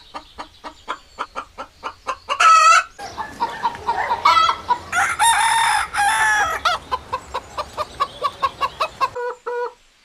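Chickens clucking in a quick, steady run of short calls, with a rooster crowing once in the middle. The clucking fades out just before the end.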